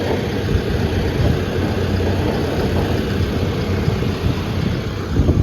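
Case 580N backhoe loader's diesel engine running steadily at idle, with a few knocks near the end.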